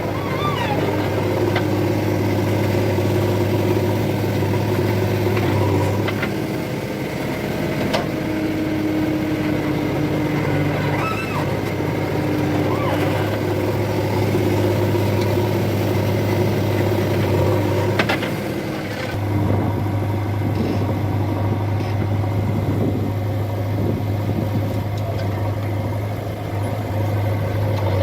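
Diesel engines of a JCB backhoe loader and tractors running steadily at a mud-loading job, the engine note shifting now and then, with a couple of sharp knocks.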